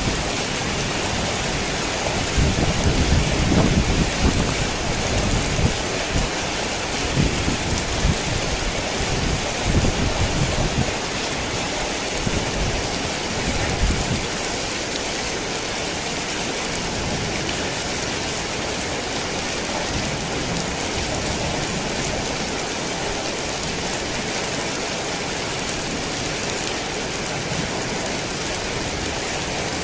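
Heavy rain falling in a steady hiss, with a low rolling rumble of thunder through the first half that fades away about halfway through.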